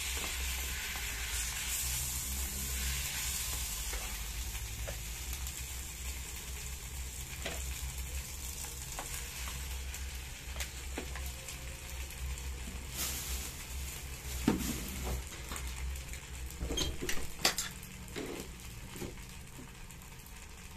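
Fried rice sizzling in a small electric frying pot as it is stirred and scraped with a plastic spatula; the sizzle dies down over the second half. A few sharp knocks near the end.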